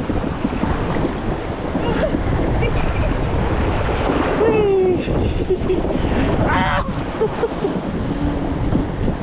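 Water rushing around a raft on a family raft water slide, with wind buffeting the microphone. Short voices break in about halfway through.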